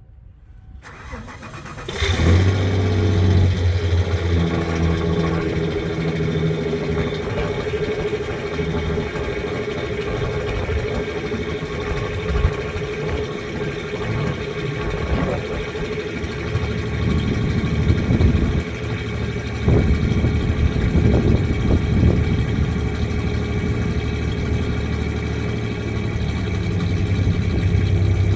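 1993 Ford Ranger's 3.0 L Vulcan V6 idling with a cylinder misfire that the owner is trying to trace. The engine comes in about two seconds in and then runs steadily, with some uneven stumbles in the middle.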